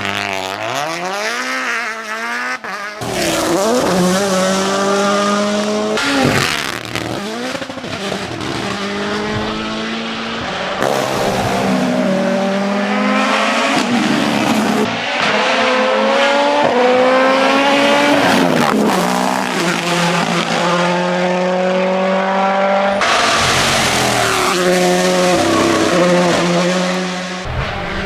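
Rally cars at full throttle on tarmac: the engines rev hard and climb through the gears in quick upshifts, with falling revs as they brake and downshift. Several runs follow one another with sudden cuts between them.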